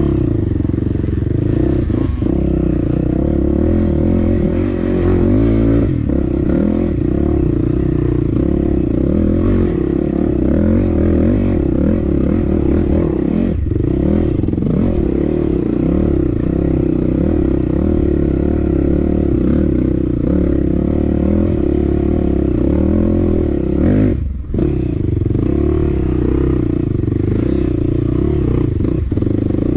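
Dirt bike engine running under load as the bike is ridden, fairly steady throughout, with one brief dip in the sound about four-fifths of the way through.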